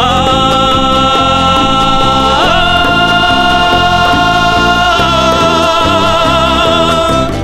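Andean folk band music: one long high melodic note held over strummed strings and bass. The note slides up at the start, steps up about two and a half seconds in, and wavers with vibrato in the second half.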